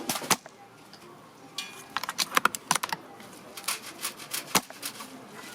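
Clusters of sharp clicks and clacks from a bolt-action spring airsoft rifle being cycled and fired, with one louder snap near the end.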